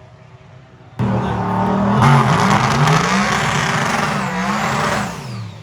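Car engine revving hard with tires squealing, starting abruptly about a second in, the revs wavering up and down, then falling away near the end.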